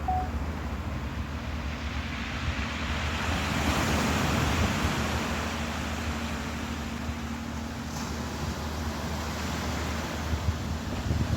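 Ocean waves washing in, one swell building to its loudest a few seconds in and then easing, over a steady low hum.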